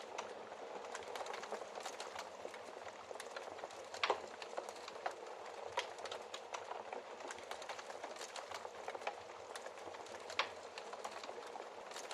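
Wood fire crackling steadily in a fireplace, with irregular small snaps and a few louder pops, the sharpest about four seconds in and again near ten seconds.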